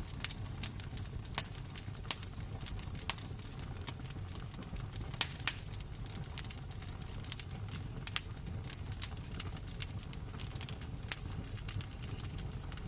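Wood fire crackling in a fireplace: irregular sharp pops and snaps, several louder ones, over a steady low rumble.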